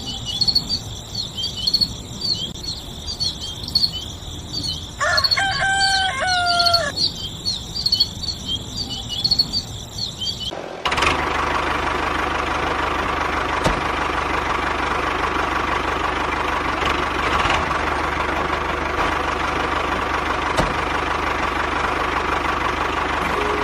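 Small birds chirping rapidly and a rooster crowing once, about five seconds in. About eleven seconds in, this cuts suddenly to a steady machine hum that runs on evenly.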